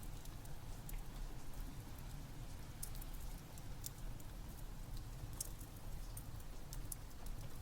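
Steady rain mixed with a crackling wood fire: a constant low rush of rain under scattered sharp pops and crackles.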